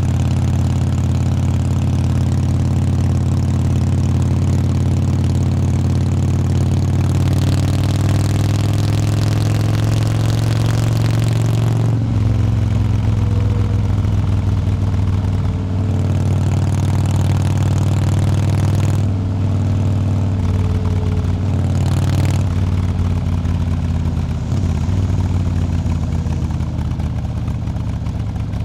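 Motorcycle engine running under way, heard close up from the bike itself. Its pitch climbs for several seconds as it accelerates, then drops in steps a few times before settling.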